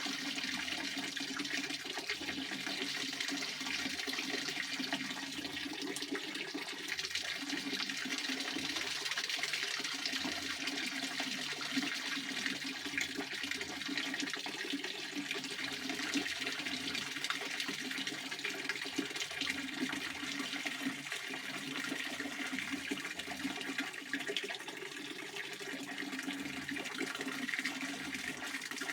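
Pond water fountain splashing steadily, its spray falling back onto the water as a continuous rushing wash.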